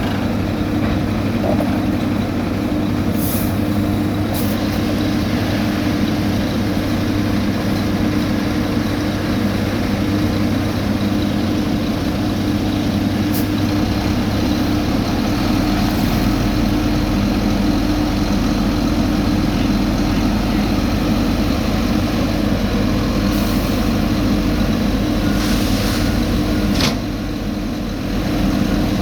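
Heavy diesel road-paving machinery running steadily, with several short hisses over the engine drone.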